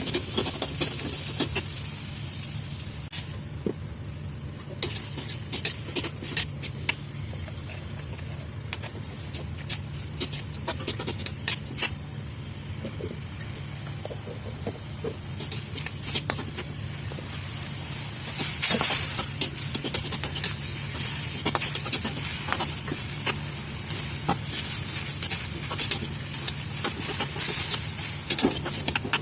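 Food sizzling in a frying pan while being stirred, with frequent clicks and scrapes of a utensil against the pan. The sizzle swells briefly about two-thirds of the way through.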